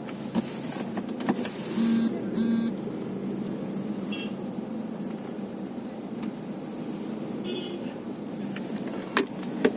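Two short blasts of a tanker truck's horn about two seconds in, over the steady hum of idling truck engines, with a couple of sharp knocks near the end.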